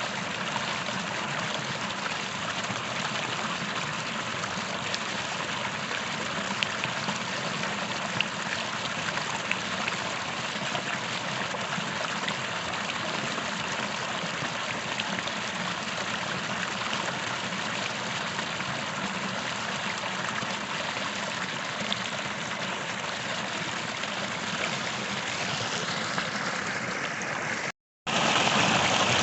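A creek flowing steadily, its water rushing and trickling over rocks. Near the end it cuts out for a moment and comes back louder and brighter.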